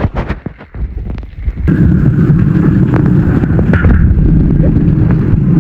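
Heavy rain beating straight on a phone's microphone: a few scattered knocks, then from about two seconds in a loud, steady, low rumble.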